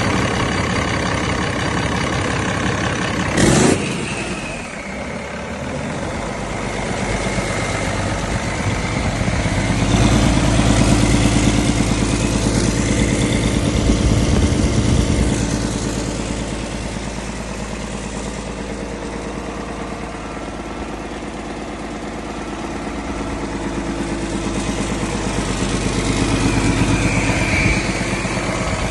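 2008 Cummins ISX inline-six diesel engine running on a test run, its revs raised and let back down twice, about ten seconds in and again near the end. A short loud burst of noise sounds about three and a half seconds in.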